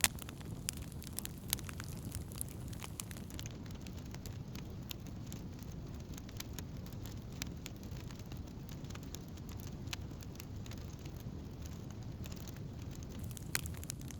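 Wood campfire crackling, with sharp pops scattered over a steady low rumble. The clicks come thickest in the first few seconds, and one strong pop comes right at the start.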